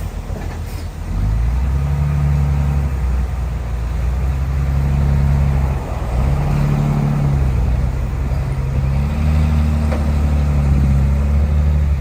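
Heavy diesel engine of earthmoving machinery working under load, rising sharply about a second in, with its pitch stepping up and down as the load changes and a brief dip near the middle.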